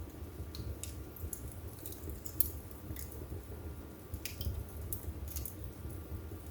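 Wood fire burning in a fireplace: a steady low rumble of the flames with irregular sharp crackles and pops from the burning wood, the loudest pop about two and a half seconds in.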